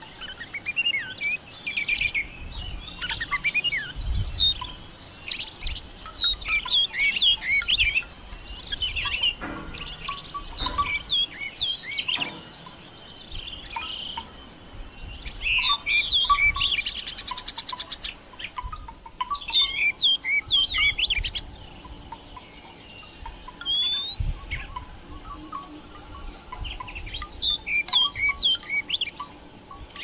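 Birds chirping and twittering in bouts of short, quick notes, with a few fast trills, the busiest bouts around the middle and near the end.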